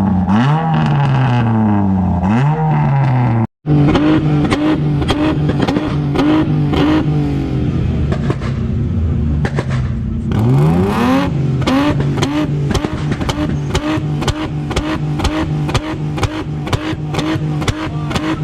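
Car engine revved repeatedly in quick bursts, the pitch climbing and falling back each time. After a brief cut the engine keeps running, with another rev about ten seconds in.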